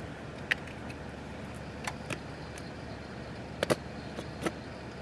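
Steady humming of an electric space heater, with a handful of short sharp clicks and taps over it, including a quick double tap past the middle.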